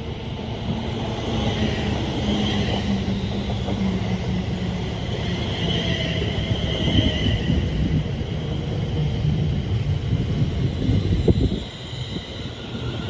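Train running through the station: a steady rumble of wheels on rail with a faint higher whine over it, dipping briefly near the end.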